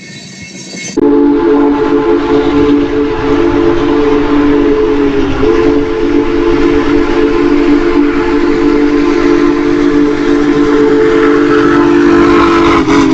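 Locomotive multi-chime air horn blown in one long, loud, steady blast. It starts suddenly about a second in, over the rumble of the train, and wavers briefly twice.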